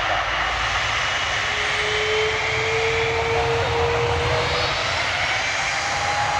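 Airliner engines running: a steady rush with thin whining tones that drift slowly upward in pitch.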